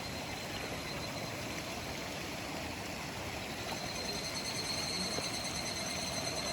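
Steady rush of flowing mountain-stream water. A thin, high, steady whine grows stronger a little over halfway through.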